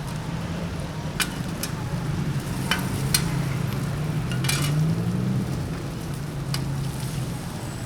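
Food sizzling as it is stir-fried in a wok, with several sharp clinks of a metal spatula against the pan. Under it there is a low steady hum that rises briefly about five seconds in.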